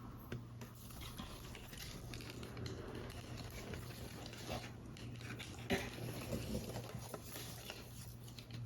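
Paper model pieces being handled: soft rustling of card and paper with scattered light taps, one sharper tap a little over halfway through, over a faint steady low hum.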